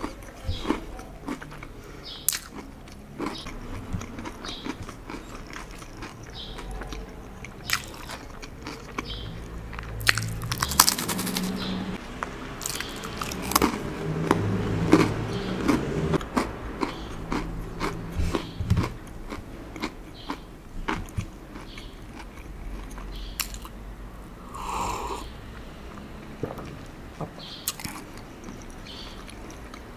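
Close-miked crunching and chewing of a crisp cracker: sharp bites and snaps scattered throughout, with a denser, louder stretch of crunching through the middle.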